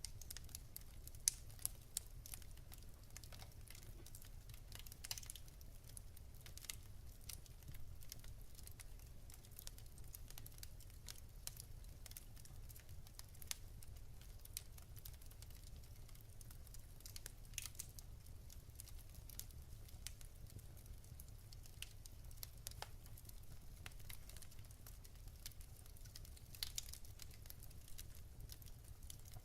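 Wood fire in a fireplace crackling: irregular small snaps and pops from the burning logs over a steady low rumble.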